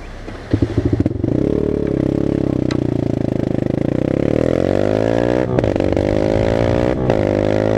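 Dirt bike engine firing with a few pops about half a second in, catching, then pulling away and accelerating. The pitch climbs and drops briefly twice, near the middle and near the end, as it shifts up through the gears.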